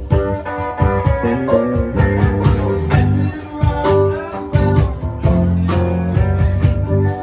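A band playing music, with guitar prominent over a steady beat.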